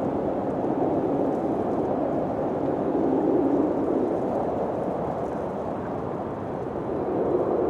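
Steady wind blowing, a low rushing noise that swells and eases gently.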